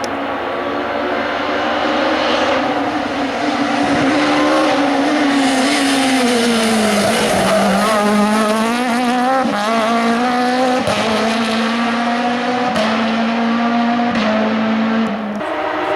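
Hill climb race car engine: its pitch falls as the car slows for about seven seconds, then climbs again in several steps as it accelerates away through the gears.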